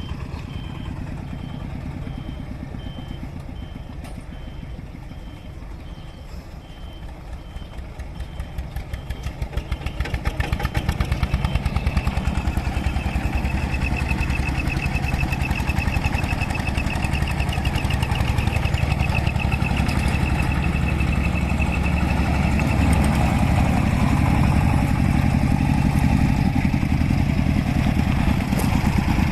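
A vintage engine running with a fast, even beat of firing pulses. It grows clearly louder about ten seconds in, then holds steady. A high, evenly repeating beep sounds through the first half.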